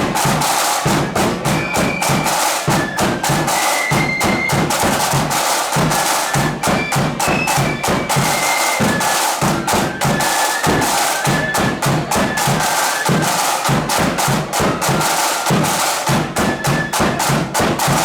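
Flute band playing a tune: flutes carrying the melody over rapid, dense snare drumming and bass drum.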